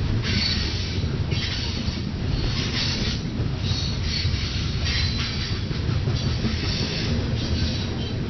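Freight train of grain cars rolling past with a steady low rumble, with short high-pitched wheel squeals about once a second.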